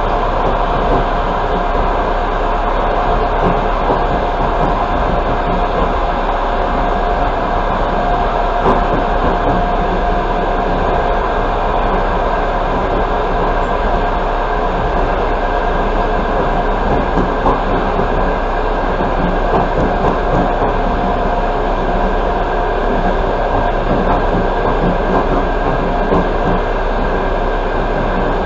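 Passenger train running at speed, heard from inside the coach: a steady, even rumble of wheels on rails with a faint steady whine.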